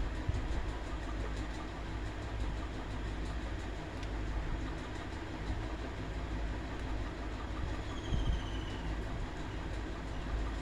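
A steady mechanical rumble with a low hum, with a short, high, falling chirp about eight seconds in.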